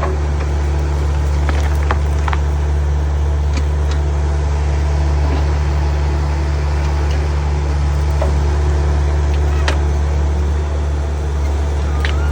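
A heavy engine running steadily with an even low hum that does not rise or fall, with a few faint clicks and knocks over it.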